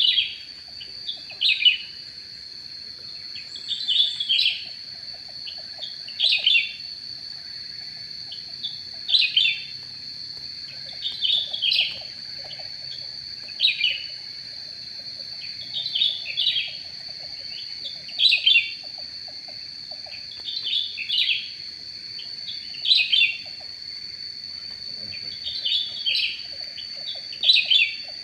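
Cucak rante bird calls: a short chirping phrase repeated about every two seconds, over a steady high-pitched whine.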